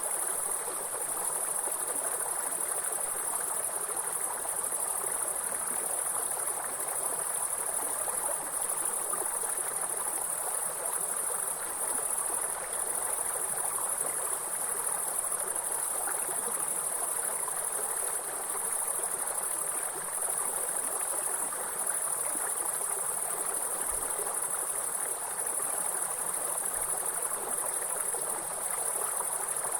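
A continuous high, shrill insect chorus over the steady rush of flowing stream water.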